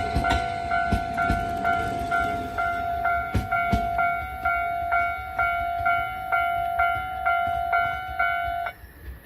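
Railway level-crossing alarm ringing a steady two-tone ding about twice a second, with a few knocks from train wheels. The alarm stops suddenly near the end.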